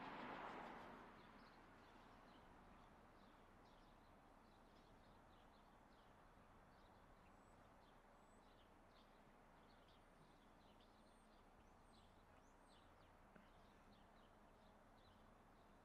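Near silence outdoors with faint small birds chirping again and again. A rushing noise fades away about a second in.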